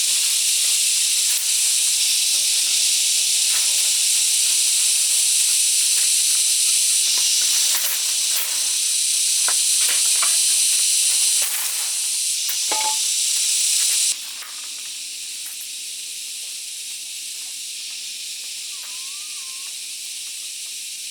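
A steady high-pitched hiss that drops suddenly in level about fourteen seconds in, with a few faint clicks.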